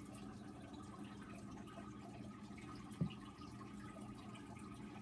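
Quiet room tone with a faint steady hum and a single light knock about three seconds in.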